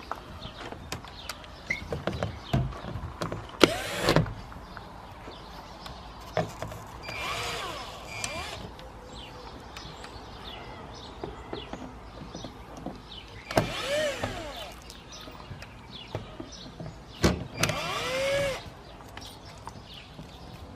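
Cordless drill-driver running in four short bursts, its whine rising and falling in pitch each time, as screws are taken out of an Atwood RV furnace's cover. Scattered clicks and knocks of handled metal parts come between the bursts.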